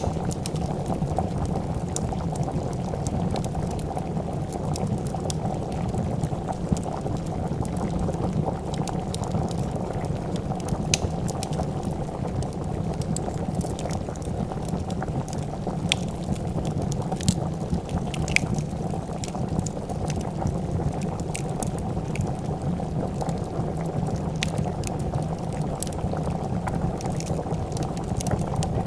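A pot of soup boiling steadily, a dense low bubbling, with a wood fire crackling in sharp, scattered pops over it.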